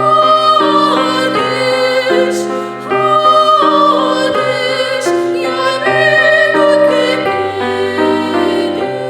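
A vocal ensemble singing in several parts, a high voice with vibrato on top, with piano accompaniment; held notes moving in steps from chord to chord.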